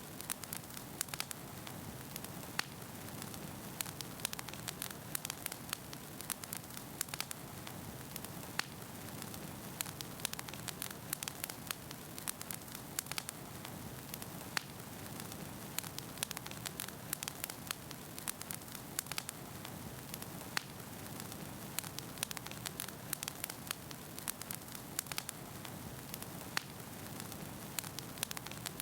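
Wood fire burning in a fireplace: a steady hiss of flames with frequent irregular sharp crackles and pops of burning firewood.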